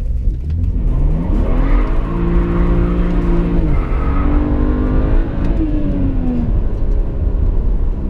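BMW 335i's turbocharged 3.0-litre N55 straight-six heard from inside the cabin, revving up under acceleration from about half a second in and then holding steady. Its pitch drops suddenly about four seconds in, holds again, and falls away after about five and a half seconds.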